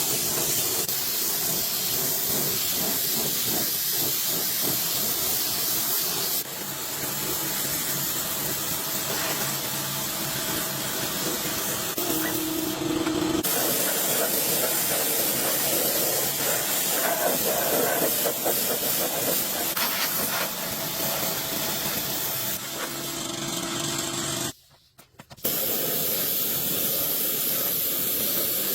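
Steady hissing noise with abrupt changes in tone about six and thirteen seconds in, and a brief dropout about twenty-five seconds in.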